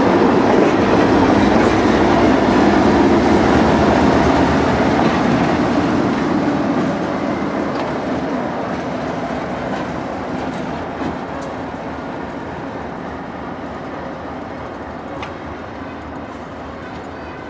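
A train rolling past, its steady rumble loud for the first several seconds and then fading as it moves away.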